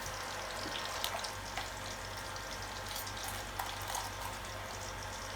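Pork frying in hot oil: a steady sizzle with scattered irregular crackles.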